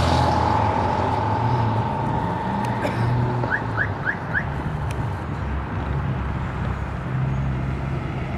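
Distant car and motorcycle engines idling and rumbling over outdoor roadside noise. A steady high tone runs for the first three seconds or so, then four quick rising chirps follow.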